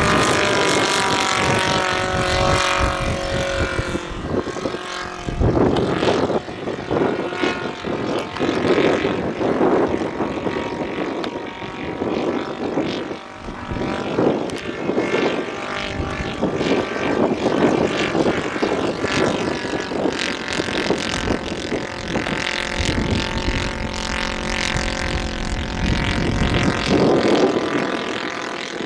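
Radio-controlled scale model airplane's engine and propeller running in flight, its pitch and loudness rising and falling as the model flies around.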